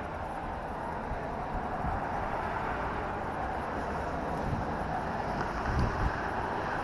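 Suzuki LS650 Savage motorcycle under way: a steady rush of wind over the action camera's microphone, with a low, uneven rumble of engine and road beneath it.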